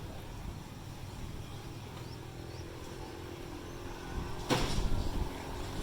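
A motorbike engine running at low revs, with a steady low rumble. A loud sudden clatter cuts across it about four and a half seconds in.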